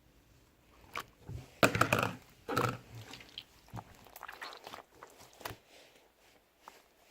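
Slime being squeezed and pressed by hand: clusters of short wet clicks and pops, loudest between about one and a half and three seconds in, then sparser smaller pops.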